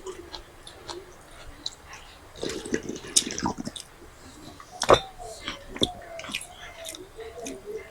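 Wet squishing and dripping of watery fermented rice (panta bhat) being mixed and eaten, with scattered small clicks and one sharp knock about five seconds in.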